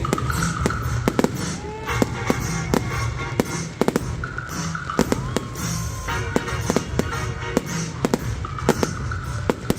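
Fireworks going off in quick succession, sharp bangs and crackles several times a second, over music played with the display.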